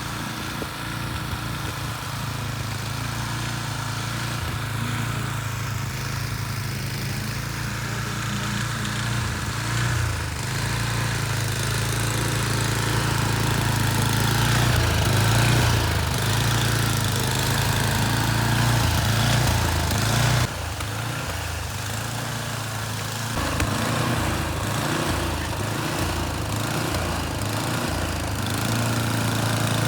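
Gasoline snowblower engine running steadily, its note dipping briefly about two-thirds of the way through before picking back up.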